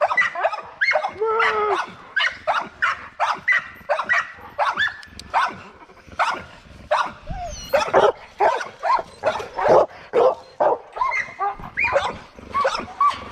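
Dogs barking repeatedly in short, quick barks, about two or three a second, with some higher yips mixed in.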